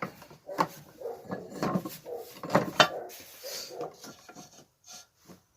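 Metal engine parts knocking and scraping as a Briggs & Stratton crankshaft is worked into the crankcase: a string of sharp clicks and knocks, the loudest two about two and a half seconds in.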